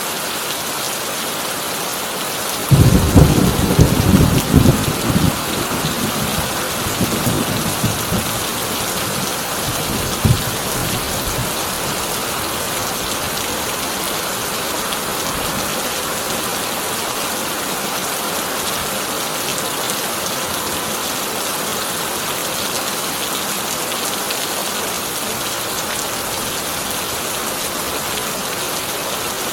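Heavy rain drumming steadily on a corrugated tin roof. A loud thunderclap comes about three seconds in and rumbles away over the next few seconds. A smaller crack of thunder follows near ten seconds.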